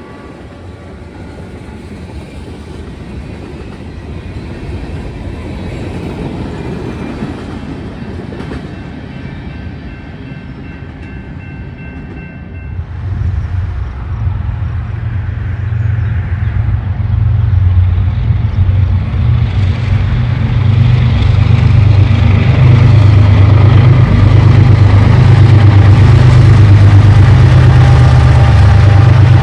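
Diesel locomotive approaching on the main line, its engine rumble growing steadily louder from about halfway through until it is very loud at the end. Faint steady high tones are heard before the engine takes over.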